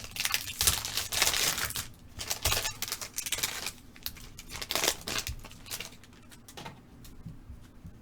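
Foil trading-card pack wrapper being torn open and crinkled, with the cards handled; the rustling dies down after about five seconds.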